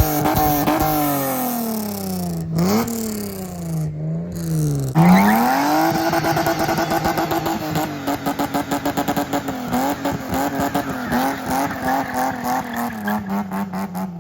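Car engine revving hard. The pitch sags and climbs again, then is blipped up sharply about five seconds in and held high with a fast, even pulsing.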